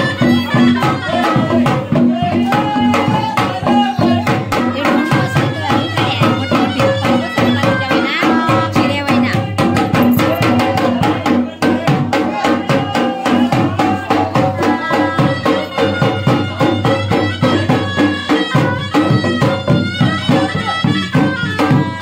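Traditional Indian folk music: fast, dense drumming under a sustained, wavering melody line.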